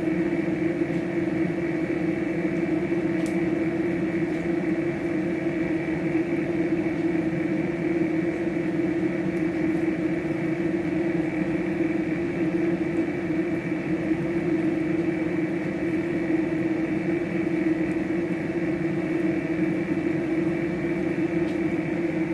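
A steady machine hum, unchanging, made of several fixed tones. There is a faint click about three seconds in.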